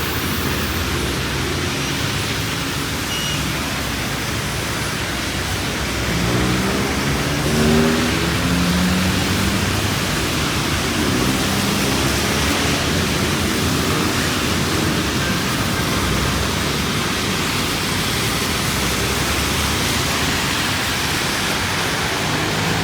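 Steady hiss of rain mixed with road traffic. A passing vehicle's engine drone rises and falls about six to ten seconds in.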